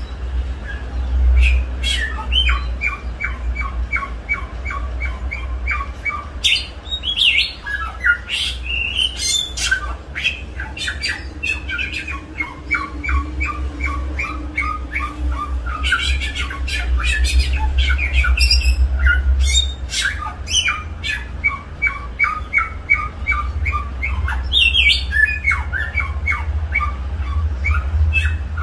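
A songbird singing: quick runs of repeated notes alternating with sharp, harsh call notes, over a steady low hum.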